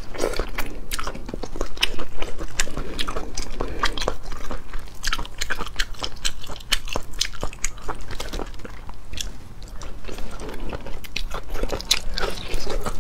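Close-miked chewing and biting of whole cooked octopus tentacles, a steady run of short mouth clicks and smacks.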